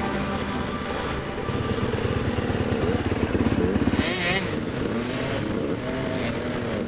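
Motocross motorcycle engine running, with short rises and falls in pitch from the throttle about halfway through.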